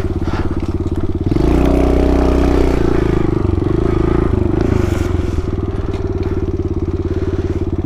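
Pit bike's small single-cylinder four-stroke engine running under way: it revs up briefly about one and a half seconds in, then settles back to a low, even putter at low revs.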